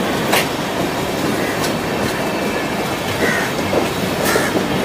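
Rajdhani Express coach running on the track, heard from aboard: a steady rumble of wheels on rail with a few sharp clicks from the rail joints.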